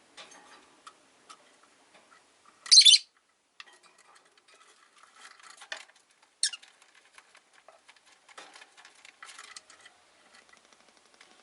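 Caged rosy-faced lovebirds (Agapornis roseicollis): a loud, shrill chirp about three seconds in and a shorter one about six and a half seconds in, among scattered light clicks and rustles.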